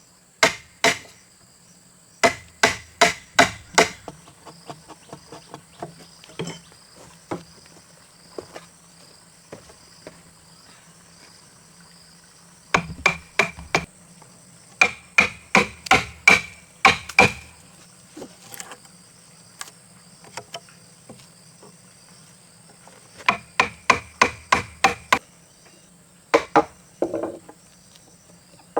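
Hammer blows on wood in quick runs of several strikes, about four or five a second, with pauses and a few lighter knocks between. Insects keep up a steady high drone.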